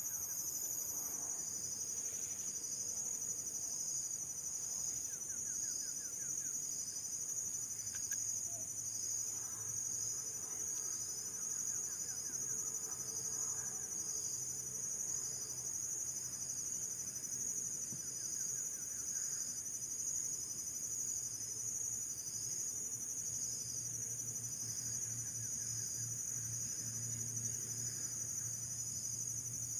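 Steady high-pitched chorus of insects trilling, with a faint low hum swelling near the end.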